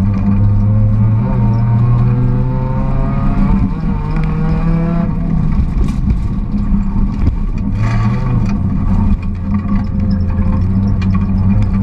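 Volkswagen Golf GTI rally car's engine heard from inside the cabin, driven hard on a stage: revs climbing and dropping back several times at gear changes, over steady road and drivetrain rumble.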